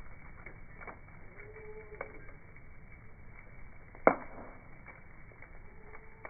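Campfire crackling, slowed down with the slow-motion footage: scattered pops and snaps, one sharp loud pop about four seconds in, and two brief thin whistling tones.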